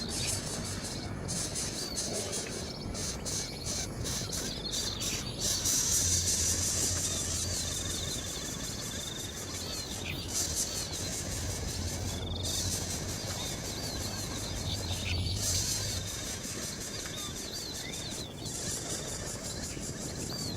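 Short high bird chirps repeated many times over a steady high insect hiss.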